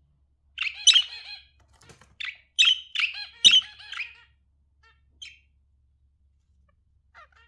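Budgerigars chirping: a fast run of sharp, high chirps for about three and a half seconds, then a lull broken by a couple of single chirps.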